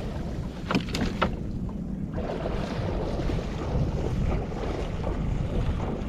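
Wind buffeting the microphone in a steady low rumble, with a few sharp knocks about a second in.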